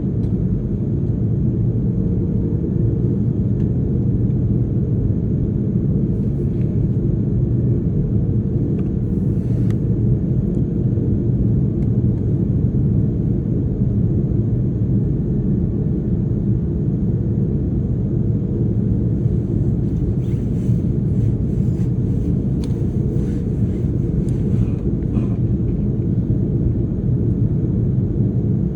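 Airbus A330-300 airliner's engines running at idle on the ground: a steady low rumble. A few faint clicks come a little past the middle.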